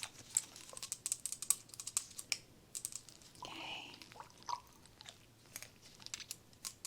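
Close-miked handling sounds: a rapid, irregular run of small sharp clicks and crackles as objects are picked up and moved about, with a brief softer rustle about three and a half seconds in.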